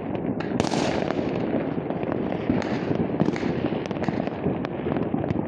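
Many fireworks and firecrackers going off at once across a town, merging into a continuous rumble of distant bangs with sharp cracks throughout. One louder bang comes just over half a second in.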